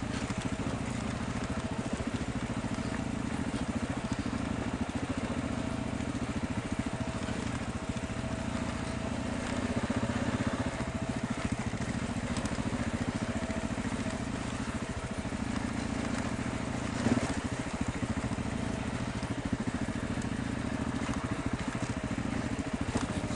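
Motorcycle engine running steadily at low revs as the bike rolls downhill over loose rock.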